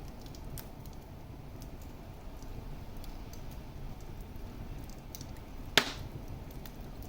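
Wood fire crackling in a fireplace: a steady low rumble of burning with scattered small pops and ticks, and one sharp, much louder pop near the end.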